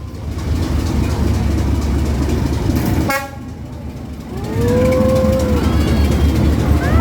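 Train passing close by with a steady low rumble, and a short horn toot a little past three seconds in. People call out over the rumble in the last few seconds.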